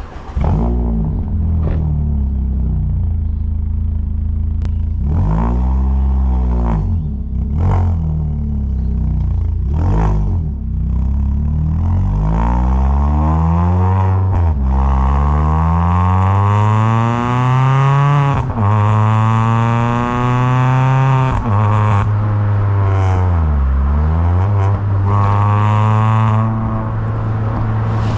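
Citroën C2 VTS's 1.6-litre 16-valve four-cylinder petrol engine, with a few short throttle blips at first. It then accelerates through the gears, the pitch rising and dropping back at each shift, and settles to a steady cruise near the end.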